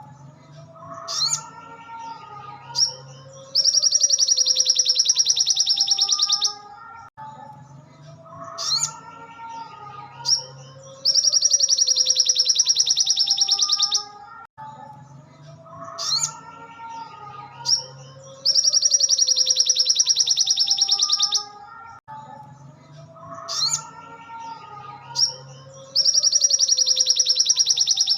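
Crimson sunbird (sogon) song on a repeating loop: a long, very fast, high rattling trill of about three seconds, coming back every seven or eight seconds, with short high chirps between. Fainter, lower gliding calls run underneath.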